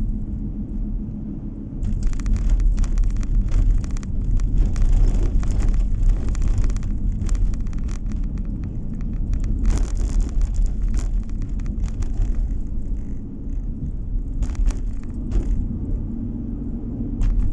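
Road noise of a moving car heard from inside the cabin: a steady low rumble of engine and tyres, with stretches of louder hiss and rapid clicks and knocks from about two seconds in and again around ten seconds.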